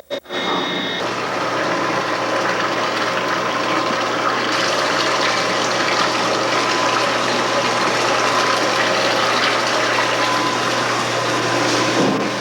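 Steady machinery noise with a constant low hum and a faint steady whine.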